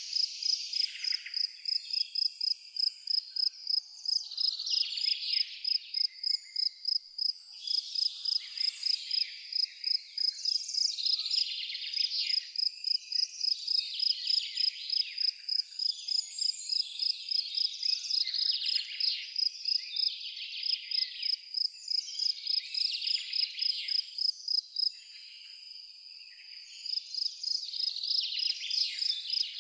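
A cricket chirping in a steady rhythm, about three chirps a second, pausing briefly near the end, with birds singing and chirping over it.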